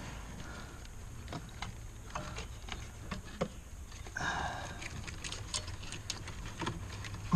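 Scattered small clicks and ticks of wiring and plastic trim being handled behind a car's dashboard, over a low steady hum.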